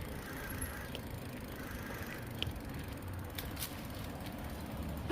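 Steady road and wind noise of a bicycle being ridden, a low rumble with a few light clicks and rattles scattered through it.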